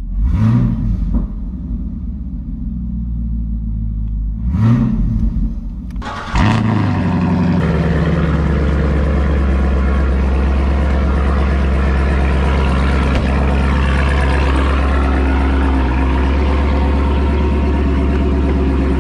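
A 2017 Camaro SS's 6.2-litre V8 blipped three times in the first seven seconds, each rev rising and dropping back. It then runs steadily and loudly.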